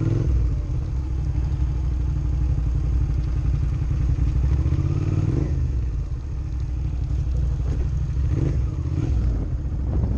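Motorcycle engine running steadily at low revs, a continuous low rumble that dips briefly about six seconds in.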